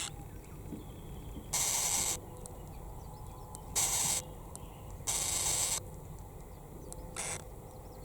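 Typhoon weather at the bay: a steady low rumble of wind and surf, broken four times by sudden hissing bursts about half a second each.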